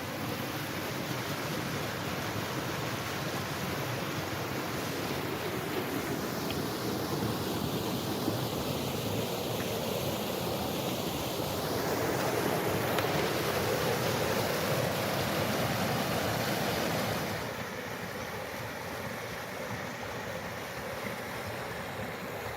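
Wind buffeting the microphone in a steady rush. It swells in a stronger gust, then drops off sharply about seventeen seconds in.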